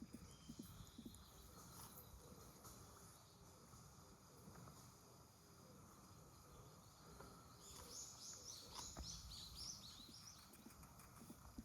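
Faint outdoor ambience with a low background hiss, and about eight seconds in a bird gives a quick run of short, high, falling chirps lasting around two seconds, with a few more chirps near the end.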